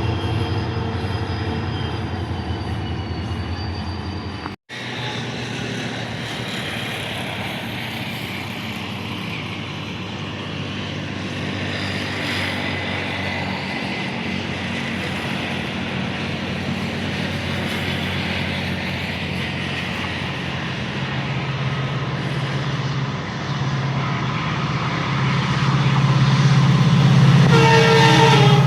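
Train running past on the rails, with an abrupt cut about four and a half seconds in. After the cut the rumble grows steadily louder as it nears, and a locomotive horn starts sounding near the end.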